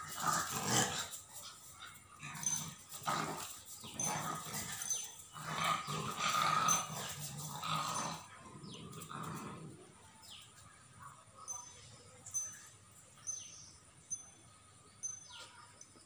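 Dogs playing, with growls and barks during the first ten seconds or so, then quieter with only scattered short sounds and a faint high chirp repeating about once a second.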